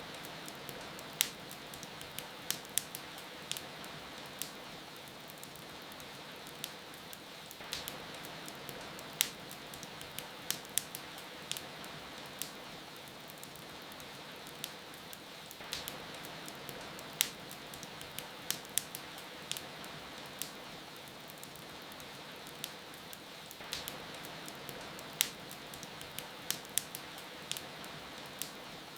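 Steady rain hiss with the irregular sharp pops and crackles of a wood fire in a fireplace. The pattern of crackles repeats about every eight seconds, as in a loop.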